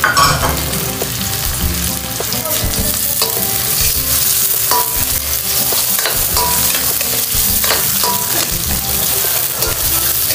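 Chopped onion, garlic, ginger and tomato sizzling in hot oil in a wok, with a spatula repeatedly stirring and scraping across the pan.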